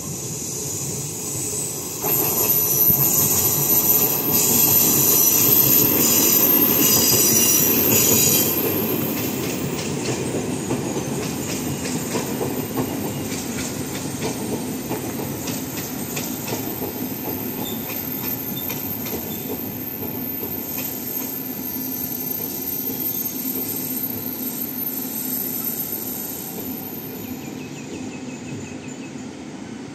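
Taiwan Railway train running on the rails at a station. It is loudest for several seconds near the start, with a high squeal from the wheels, then settles into steady rolling wheel noise and clatter that fades near the end.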